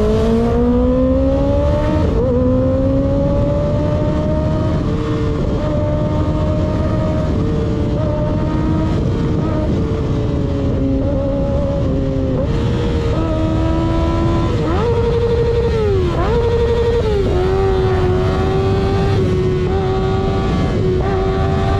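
Motorcycle engine pulling at riding speed. Its pitch climbs over the first couple of seconds, then holds fairly steady. About two-thirds of the way through the revs rise and drop quickly a few times before settling again, with a steady low rush of wind and road underneath.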